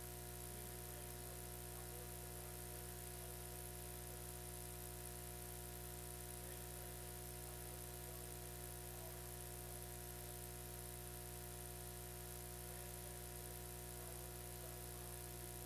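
Steady electrical hum and buzz made of many fixed tones over a constant hiss: the noise of an audio feed with its programme sound missing. Something faint and indistinct wavers underneath.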